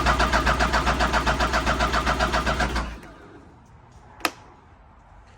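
Electric starter of a 2015 Arctic Cat ZR7000 snowmobile cranking its cold engine in an even, rapid pulse of compression strokes without it firing, stopping abruptly about three seconds in. About a second later comes a single sharp click.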